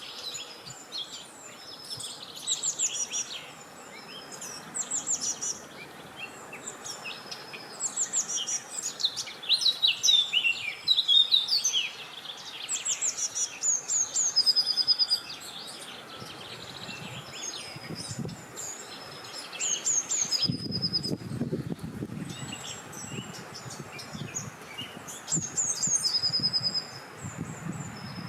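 Several songbirds singing and calling at once, a dense mix of quick high chirps and trills. Past the middle, a low wind rumble rises and falls beneath them.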